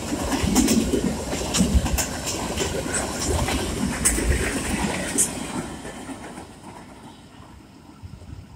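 CSX freight train's open-top freight cars rolling past, a heavy rumble with sharp wheel clicks over the rail joints. Over the last few seconds the sound fades as the train moves away.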